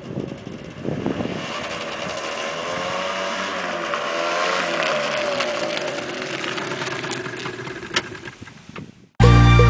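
Motorcycle engine running, its pitch wavering up and down with the throttle. It cuts off suddenly about nine seconds in and loud music starts.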